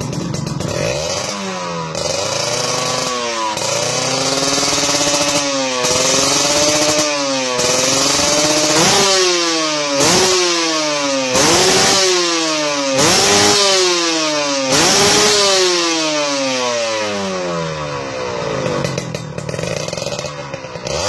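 Kawasaki Ninja R/RR single-cylinder two-stroke engine, fitted with an aftermarket stainless-steel expansion-chamber exhaust, being revved repeatedly while stationary. Gentler swells in revs at first, then a run of about six sharp throttle blips, each rising quickly and falling away, before the engine drops back toward idle near the end.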